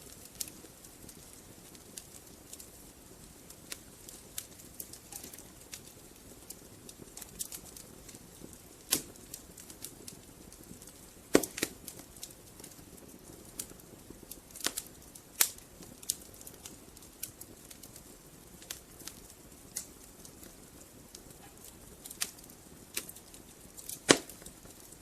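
Wood fire burning in a fireplace: a soft steady hiss with irregular crackles and sharp pops of the burning logs, the loudest pops about eleven seconds in and near the end.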